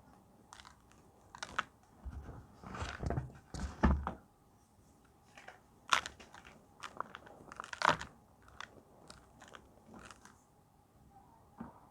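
Reformed gym chalk being crunched and crumbled, with irregular crisp crunches, a few louder breaks about three, six and eight seconds in, and small crackles between.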